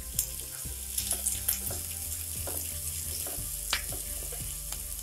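Chopped green beans and onion sizzling in hot oil in a frying pan, with a spatula scraping and clicking against the pan as it stirs them.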